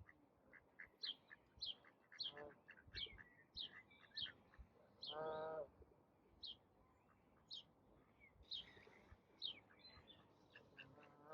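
Small birds chirping with many short, high, falling notes, faint throughout, and a single duck quack about five seconds in.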